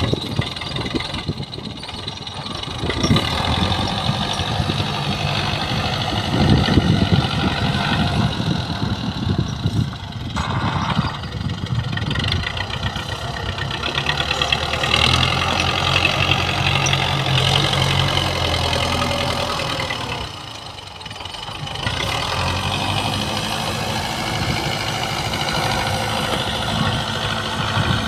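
Belarus tractor's diesel engine running under changing load, its note shifting up and down as it works, with a short dip in level about twenty seconds in.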